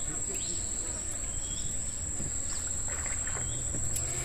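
A single steady, high-pitched insect trill, with a low rumble beneath it and a few faint short chirps.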